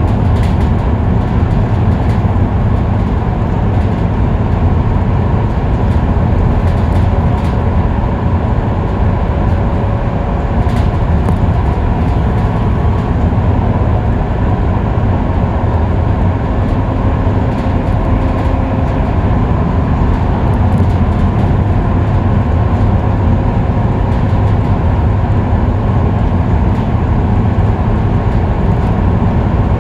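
Scania K310UB bus's five-cylinder diesel engine and road noise cruising at a steady freeway speed: a loud, even low rumble.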